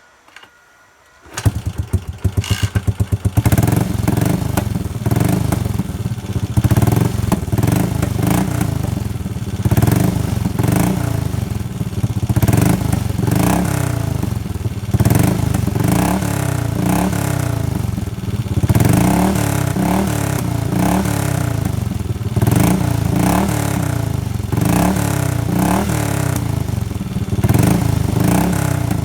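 Yamaha SR400's single-cylinder four-stroke engine starting about a second in, firing in loud, even pulses, then running steadily while the throttle is blipped briefly every few seconds.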